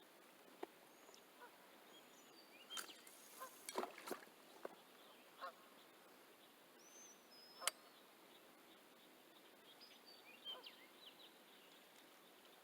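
Faint outdoor quiet with scattered bird calls, among them honk-like calls and small high chirps, and a few sharp clicks or knocks, the loudest about two-thirds of the way in.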